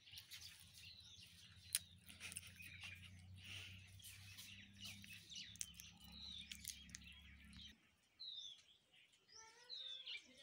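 Faint chirping of small birds, with a few short downward-sliding chirps in the last couple of seconds.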